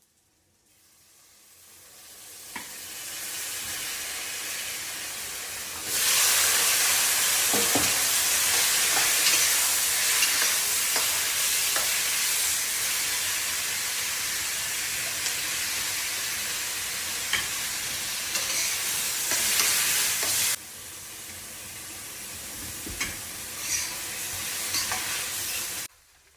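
Stir-fry sizzling in a hot pan as sliced dumpling wrappers and ham sausage are fried, with scattered spatula clicks. The sizzle builds over the first few seconds and jumps sharply louder about six seconds in. It drops suddenly about twenty seconds in and carries on more quietly.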